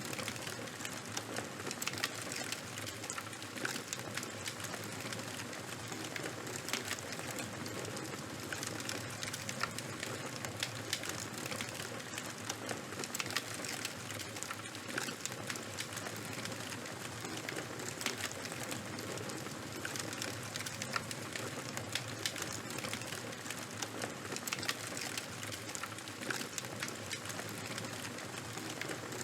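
Fire crackling steadily, with many small sharp pops over a constant hiss.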